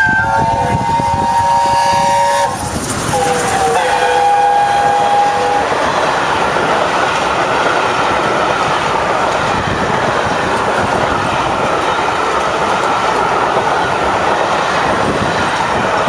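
Chime whistle of the A1 Peppercorn steam locomotive 'Tornado' sounding two blasts, the second lower in pitch as the engine passes. The locomotive and its train then run by at speed.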